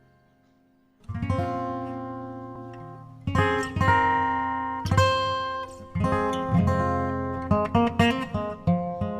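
Background music played on acoustic guitar. After a moment of near silence, strummed chords ring out about a second in, with notes coming quicker near the end.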